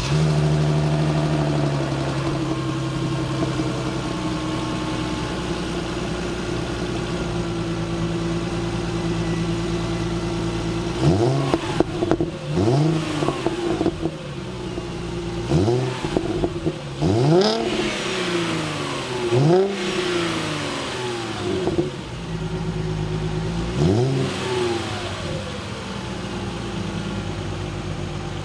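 Mercedes-Benz C350's 3.5-litre V6 running through its stock exhaust, idling just after starting, the idle easing down over the first several seconds. Midway it is blipped in a run of about eight short, sharp revs, each rising and falling quickly, then it settles back to idle.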